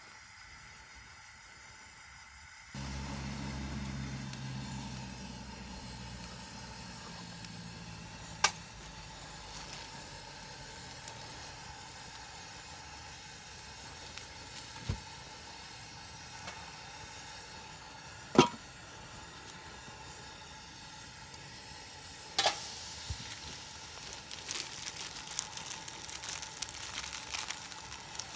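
Steady sizzling, typical of food frying in a pan on a camp burner, with a few sharp clicks, growing into denser crackling near the end.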